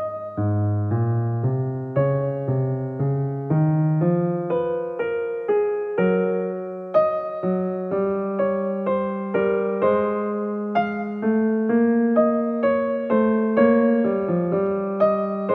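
Solo keyboard music: piano-like struck notes, each fading after it is played, with a melody over lower bass notes at about two notes a second.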